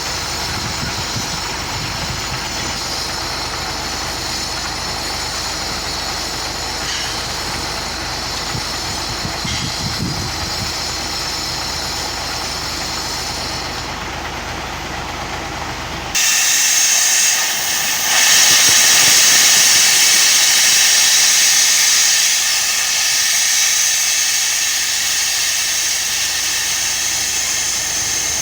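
A concrete mixer truck's diesel engine running steadily. About sixteen seconds in, the sound switches abruptly to a loud, steady hiss.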